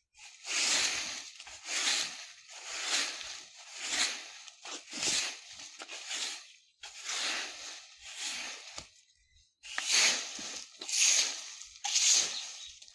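A broom sweeping dry fallen leaves across the ground in repeated strokes, about one a second, each a rustling, crackling swish, with a brief pause about nine seconds in.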